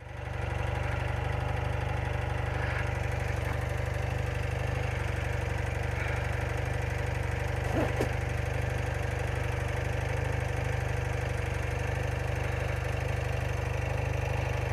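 BMW R80RT's air-cooled boxer twin engine idling steadily with an even pulse.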